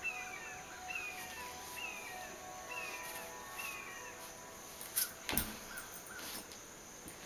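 A bird calls a short, falling note about once a second, five times. Then, about five seconds in, come two thuds with a few softer knocks as a yoga jump-back lands: hands and feet meeting a mat on a wooden floor.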